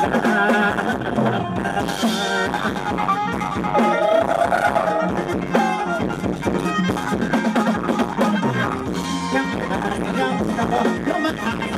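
Loud amplified dance music with a steady drum-kit beat and a brass-like lead melody, played over a rot hae parade sound truck's speakers.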